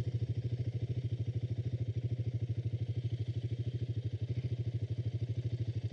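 Motorcycle engine idling steadily, with a quick, even beat of about eleven pulses a second.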